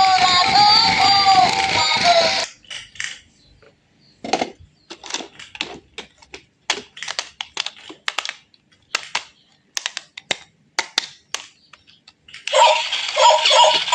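A voice over music for the first couple of seconds, then a string of short, sharp, irregularly spaced clicks and taps for about ten seconds. Music with singing comes back near the end.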